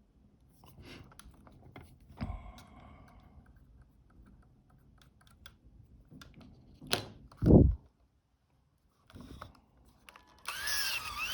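Light clicking and handling noises of a Fuji GA645 camera and small tools being worked on at a bench, with a short humming tone about two seconds in. A sharp click is followed by a dull thump, the loudest sound, about seven seconds in, and a louder wavering rustle begins near the end.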